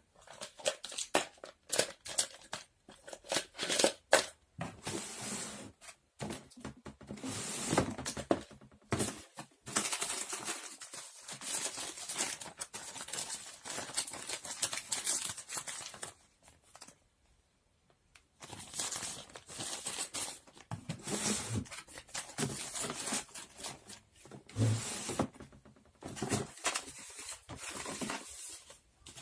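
Crinkly material handled by hand, rustling, crinkling and tearing in bursts, with small clicks and taps and a few short pauses.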